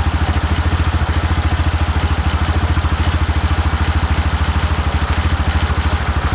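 2016 Massimo MSU 500 ATV's single-cylinder engine idling steadily with an even, rapid pulse, running on a newly fitted performance chip.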